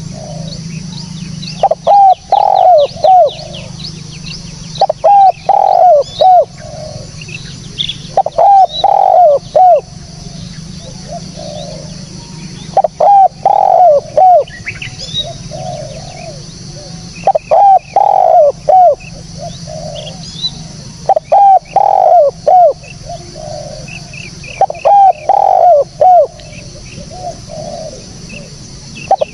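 Spotted dove (tekukur) cooing: a loud phrase of three or four coos followed by a few softer ones, repeated about every four seconds. Thin, high chirps of small birds run underneath.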